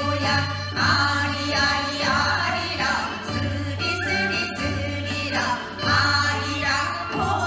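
A group of singers singing a Gyeonggi folk song (minyo) together, with music.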